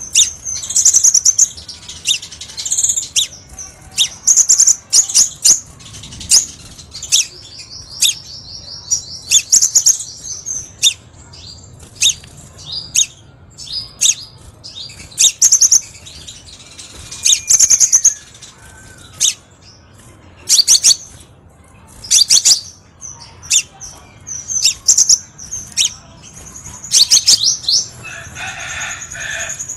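Crimson sunbird calling: a string of high, sharp chirps with short gaps between them, and a fast, even trill about eight to ten seconds in.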